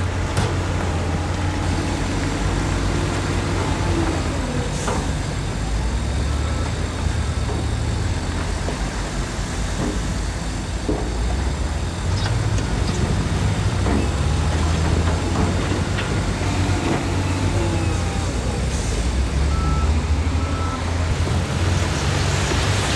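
Heavy diesel earthmoving machinery running steadily with a low engine rumble, the pitch and load shifting a little, with scattered short clanks and knocks.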